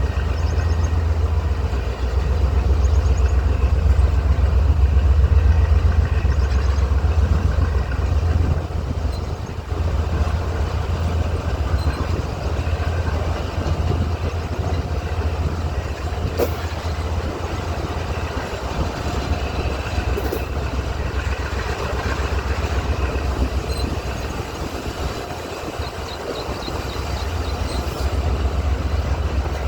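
Diesel locomotive engine running under load as the train pulls away, a steady deep rumble that is heaviest in the first several seconds, with the train rolling.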